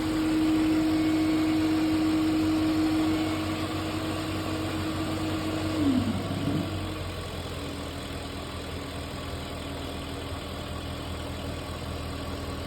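2002 BMW 540i's V8 engine idling after a cold start, with a steady tone over the idle. About six seconds in the pitch briefly dips and comes back, and the engine then runs on a little quieter.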